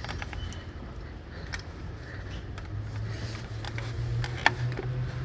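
A few sharp metallic clicks and knocks from work on a car gearbox, with a steady low hum behind them that grows louder in the second half; the sharpest click comes about four and a half seconds in.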